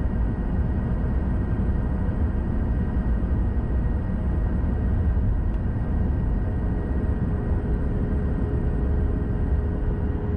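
Steady low rumble in the cabin of a Boeing 737 MAX 8 taxiing after landing, its CFM LEAP-1B engines at idle under the cabin air noise, with a faint high whine that stops near the end.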